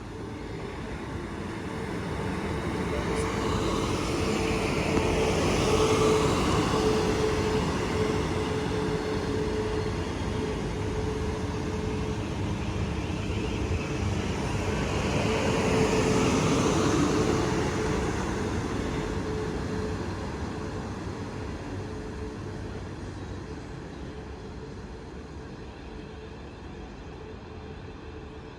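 A passenger train moving through the station. Its sound swells twice, then slowly fades, with a steady hum running under it.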